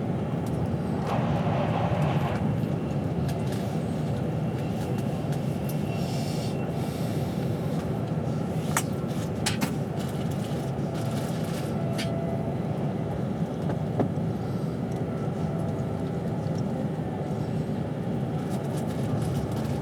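Steady running rumble of an express train heard from inside the passenger carriage at speed, with a few faint whining tones over it and scattered light clicks and ticks.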